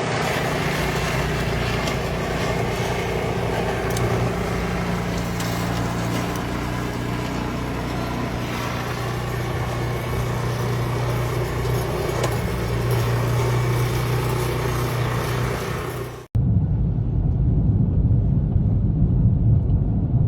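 A motor vehicle running steadily, its engine hum under road and wind noise. About 16 seconds in it cuts off abruptly and a duller low rumble takes over.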